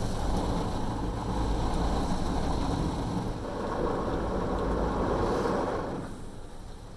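Automatic car wash working on a minivan, heard from inside the cabin: a steady rushing, rumbling wash noise that dies down about six seconds in.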